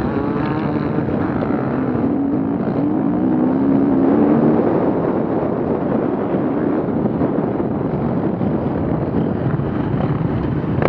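Off-road vehicle engine running, its pitch rising as it revs up about two seconds in, then carrying on steadily.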